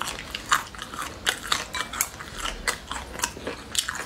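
Close-up chewing and biting of chewy, crunchy braised offal: a quick, uneven run of crisp crunches and clicks, several a second.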